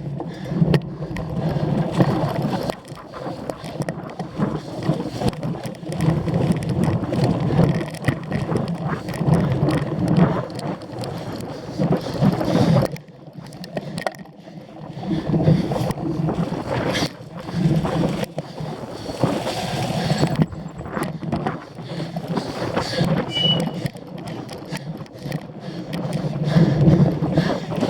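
Cyclocross bike clattering and rattling over rough ground, a continuous jolting noise full of short knocks that rises and falls in bursts.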